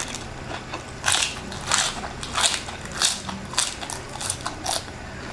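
Crispy fried chicken skin being chewed close to the microphone: about seven loud crunches, roughly every half second, starting about a second in.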